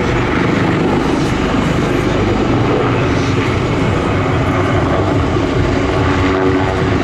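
Leonardo AW249 Fenice attack helicopter in flight: a loud, steady rotor beat with engine drone.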